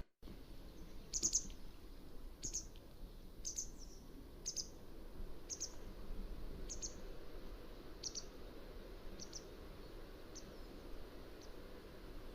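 Mountain wagtail calling: a run of short, sharp high calls about once a second, growing fainter over the last few. The sound cuts out for a split second at the very start.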